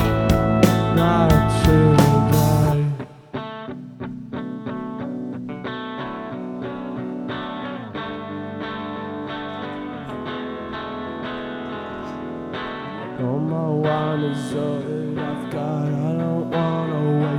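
Live band playing an instrumental passage. The full band with drums drops out about three seconds in, leaving electric guitar picking notes through a chorus effect, and the low end comes back in near the end.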